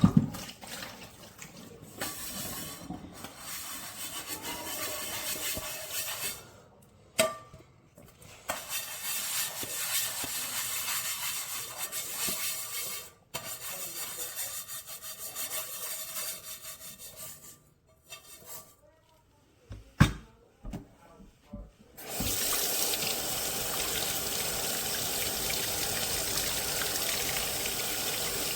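Kitchen tap running in stretches, shut off and turned on again several times, with a few sharp knocks near 7 and 20 seconds in. From about 22 seconds it runs steadily.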